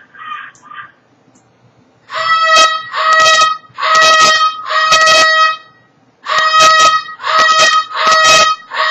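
A bird's loud, evenly pitched honking calls, each about half a second long, in two runs of four with a short pause between; a few softer short calls come first.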